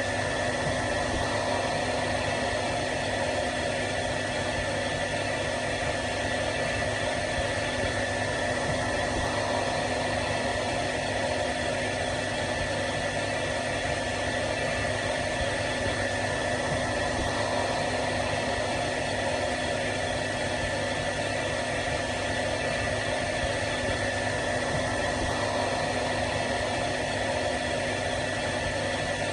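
Electric hair dryer running continuously: a steady blowing rush of fan and air with a constant motor whine.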